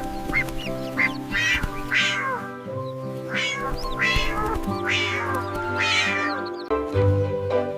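A cat meowing over and over, about one high meow a second, over background music with steady held notes.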